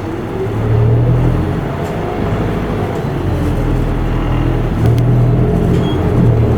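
Isuzu Erga Mio city bus heard from inside the cabin: its four-cylinder turbo-diesel engine running and pulling, with its deep note dipping briefly and picking up again a few times.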